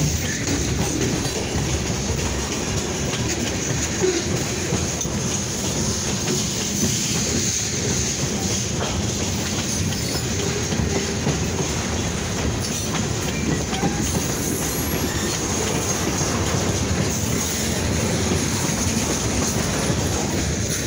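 Freight train's covered hopper cars rolling past close by: a steady, loud rumble and clatter of steel wheels on the rails.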